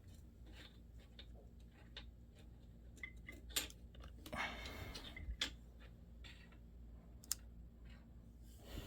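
Faint scattered clicks and light taps from small laptop parts being handled and fitted, with a brief scraping rustle about four and a half seconds in.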